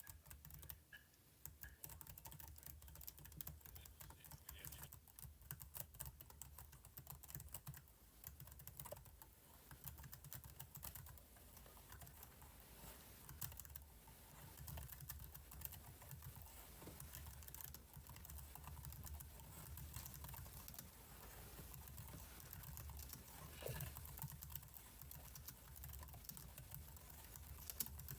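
Computer keyboard keys clicking in quick, irregular runs of faint keystrokes, over a low steady hum.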